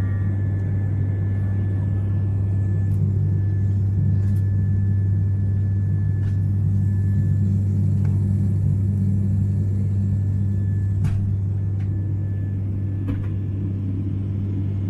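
Airliner cabin noise in flight: a steady low drone of the engines and airflow, with a faint steady high-pitched tone and a few faint clicks over it.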